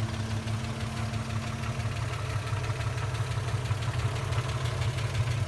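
GM Caravan SS six-cylinder engine idling steadily with a low, even rumble.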